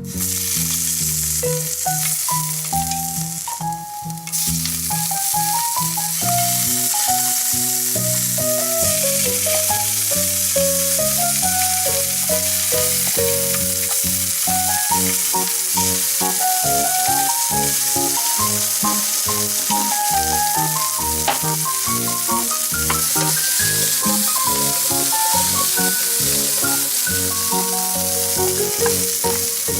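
Food sizzling as it fries in a hot pan, a steady hiss that dips briefly a few seconds in, with background music playing a melody over it.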